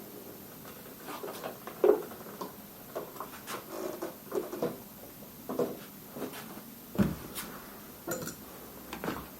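Irregular clinks and knocks of metal tools and fork parts being handled while working on a moped's front fork leg, with a sharp clack about two seconds in and a heavier thump about seven seconds in.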